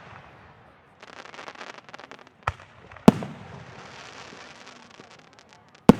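Aerial fireworks shells bursting: three sharp booms, the loudest about halfway through and another near the end, with crackling stars popping densely for a second or two before and after the middle boom.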